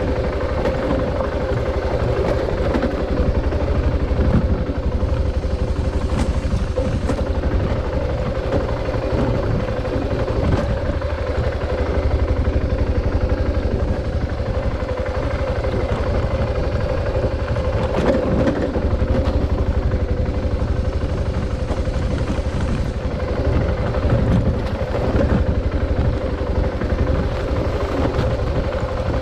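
Adventure motorcycle engine running steadily under way, with heavy road and wind rumble and a few brief knocks from the bike.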